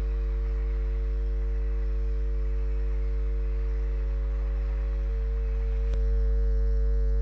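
Steady electrical hum at mains frequency with a ladder of overtones, unchanging throughout, with one short click about six seconds in.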